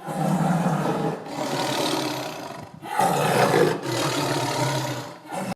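Tiger roaring, two long roars one after the other.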